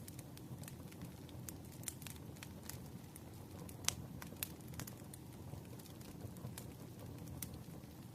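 Ambience track of a wood fire crackling, irregular sharp pops and snaps, the loudest about four seconds in, over a steady low rumble with rain.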